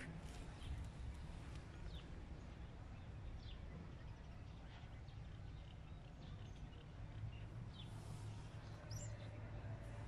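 Birds chirping faintly now and then, short single chirps a second or more apart, over a steady low background rumble.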